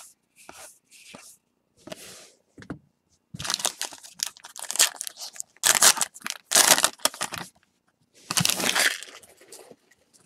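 A trading-card pack wrapper being torn open and crinkled by hand, in several bursts of tearing and crackling.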